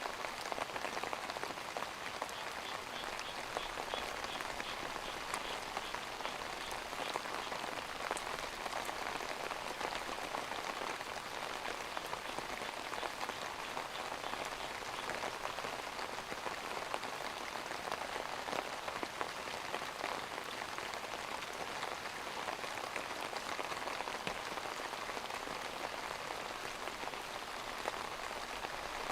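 Steady rain falling, an even patter of many drops that holds at the same level throughout.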